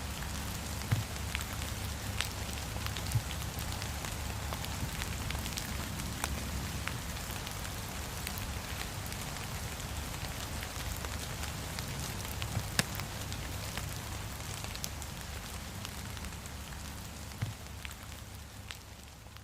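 Steady heavy rain pattering on window glass, with a wood fire crackling and giving occasional sharp pops. The sound fades down near the end.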